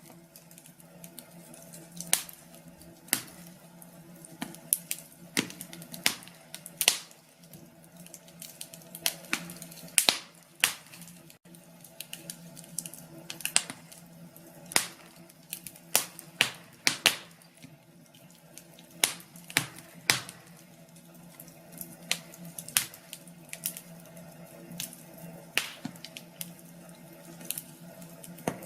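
Wood fire crackling in a fireplace: irregular sharp pops and snaps, often one every second or so and sometimes in quick clusters, over a steady low background.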